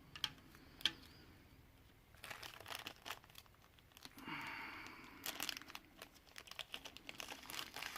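Faint crinkling and light clicking of plastic from diamond-painting work: the drill bag, tray and cover film being handled, with small resin drills being placed. Scattered ticks at first, busier from about two seconds in, with a short rustle around four and a half seconds.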